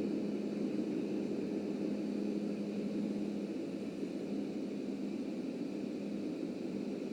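Steady running noise of a subway train in motion: a low rumble with a constant hum, and no distinct clicks or changes.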